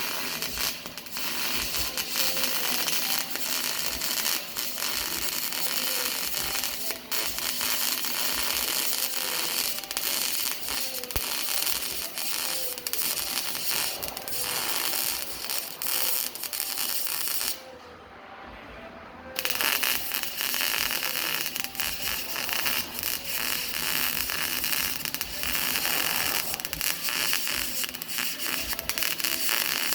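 Welding arc crackling and hissing steadily while joining 3-inch stainless steel pipe. It breaks off for about two seconds a little past halfway, then strikes up again.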